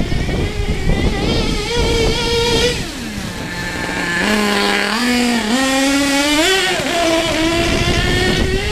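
HPI Savage SS nitro RC truck's glow engine running at a high whine, falling to a low idle about three seconds in, then revving back up in steps and holding a steady middle speed. It runs alright with a tank filled above a crack that otherwise bleeds off fuel pressure.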